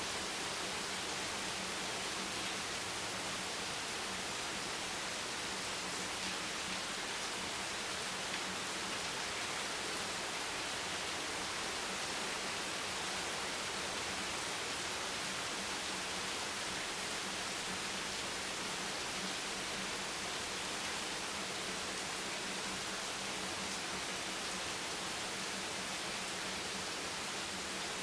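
Steady rain falling as an even, unbroken hiss, strongest in its high end, with no single drops standing out.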